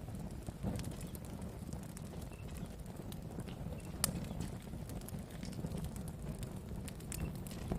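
Wood campfire burning: a low rumble of flames with scattered crackles and sharp pops, one louder pop about four seconds in.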